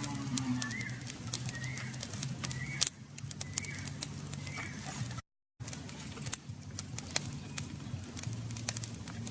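A small bird calling with short chirps that rise and fall, about one a second, for the first few seconds. Many sharp crackles run throughout.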